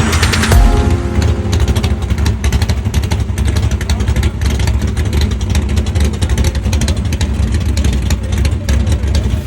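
A car engine running, with a heavy low rumble.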